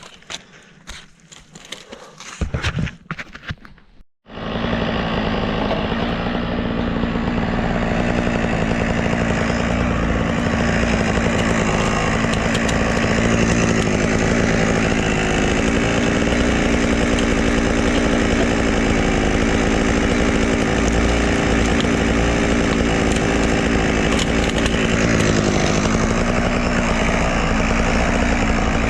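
Chainsaw starting up abruptly about four seconds in and then running steadily at an even pitch, after a few quiet handling clicks.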